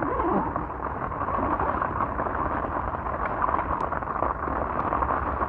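Heavy rain falling steadily on a small makeshift shelter, heard from inside as a dense, even hiss.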